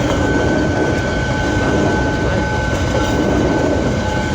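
Freight train passing at close range: a loud, steady rumble of wagon wheels on the rails, with a steady high whine running through it.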